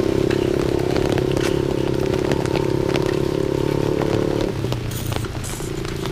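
Motorcycle engine running at a steady pitch, then dropping away about four and a half seconds in, with scattered ticks of rain throughout.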